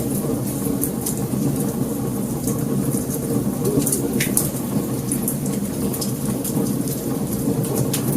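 Wood fire crackling: frequent sharp pops and snaps over a steady low rumble of burning flames.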